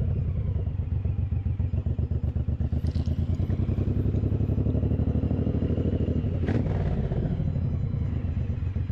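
Suzuki Boulevard M109R's 1800 cc V-twin engine running at low revs as the bike rolls slowly, a steady pulsing beat. A brief knock sounds about three seconds in and again about two-thirds of the way through.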